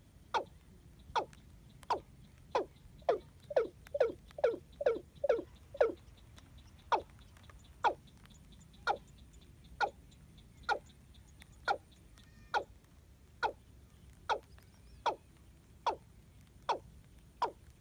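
A bird repeating a short call note that sweeps downward in pitch, about one note a second, with a quicker run of notes a few seconds in: the female call used as a lure for trapping this bird.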